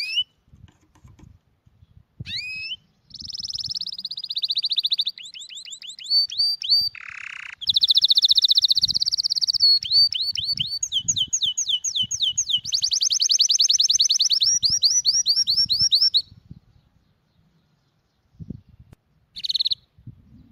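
A songbird singing in long runs of rapid, high chirping trills, falling quiet for a few seconds before one short burst near the end. Faint low knocks sound underneath.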